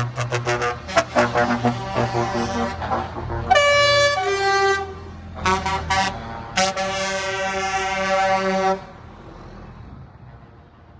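Truck air horns sounding over a low diesel engine rumble: a string of quick short toots, then two held multi-tone chord blasts, the second lasting about two seconds, before the horns stop about nine seconds in.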